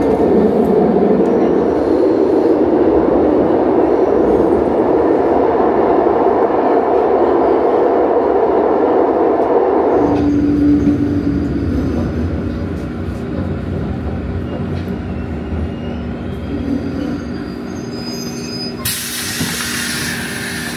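Renfe series 450 double-decker commuter train heard from inside the passenger car, its running noise a loud, dense, steady rumble. About halfway through the noise drops suddenly to a quieter rumble with a steady hum that sinks slightly in pitch as the train slows toward a station. A sudden loud hiss comes in near the end.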